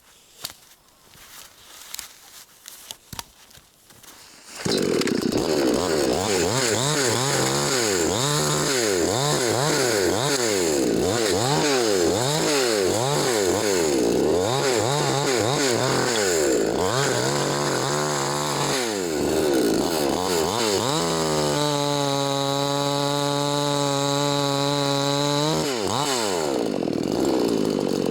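Chainsaw cutting a dry dead tree into firewood. It comes in suddenly after a few faint knocks, revs up and down over and over, holds one steady pitch for a few seconds near the end, then revs again.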